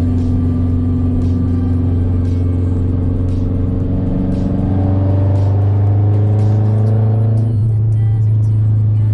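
A Mazdaspeed3's turbocharged 2.3-litre four-cylinder idles steadily on a cold start through an unmuffled aftermarket exhaust, with a deep, loud drone. The idle pitch rises slightly about halfway through.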